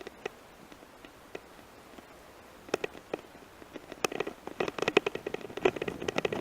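Mountain bike rattling and clattering over a rough gravel forest road: quiet at first, then sharp rattles starting about three seconds in and growing busier toward the end.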